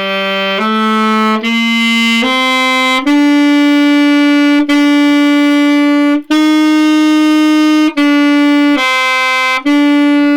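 Saxophone playing a phrase loudly at a steady forte throughout, as an exercise in forte dynamics. It plays about ten tongued notes: four short notes step upward over the first three seconds, then longer held notes follow, with one dip to a lower note near the end before a final held note.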